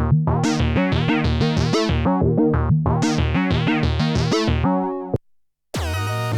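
Arturia MicroFreak synthesizer playing a fast run of short, bright, plucky notes in a steady rhythm, about five a second. It stops just before five seconds in, and after a brief gap a new preset starts with a sustained droning note near the end.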